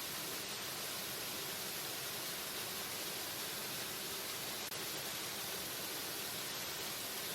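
Waterfall rushing in a steady, even hiss with no change in level, weighted toward the high end. A single faint click a little past halfway.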